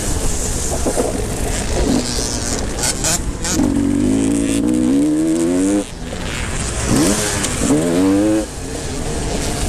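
Motocross motorcycles racing, engines revving hard with the pitch climbing as they accelerate and cutting off sharply as the throttle closes, twice in the middle and later part.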